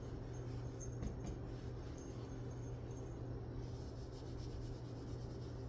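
Faint light scratching and rubbing, small irregular ticks, over a steady low hum.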